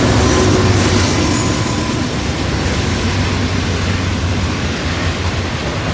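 Freight train passing close by: the trailing diesel locomotive going by at the start, then loaded rock hopper cars rolling past with a steady, loud rumble of wheels on rail that eases slightly after the first couple of seconds.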